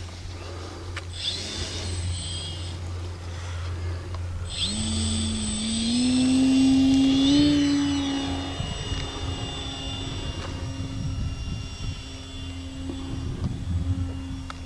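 Radio-controlled model airplane's motor and propeller running up about four and a half seconds in, the pitch rising in steps and then holding steady at full throttle. It is loudest a few seconds after the run-up begins.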